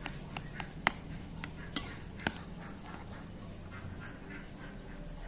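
Kitchen utensil sounds from food preparation: about seven sharp clicks and taps in the first two and a half seconds, then softer handling noise.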